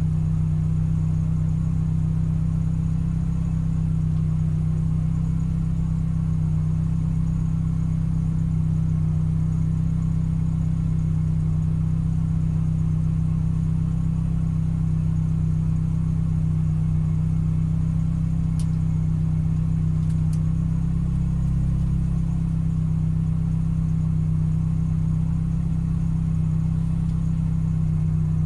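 Car engine idling steadily while stationary, a constant low hum heard from inside the cabin.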